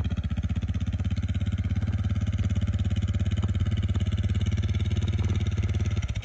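Suzuki Freewind's single-cylinder four-stroke engine running steadily at low revs with an even pulse as the bike is ridden slowly. The engine cuts off abruptly near the end.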